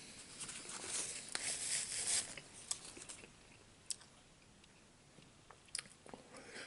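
Chewing and mouth sounds of a man eating chicken and dumplings, with a few short, light clicks scattered through.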